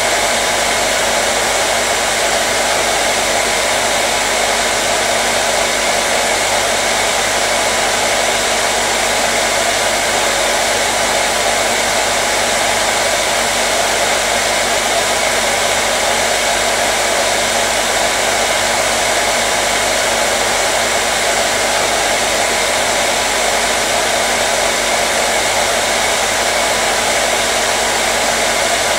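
Hair dryer running steadily: an even rush of blown air with a faint motor hum underneath, unchanging throughout.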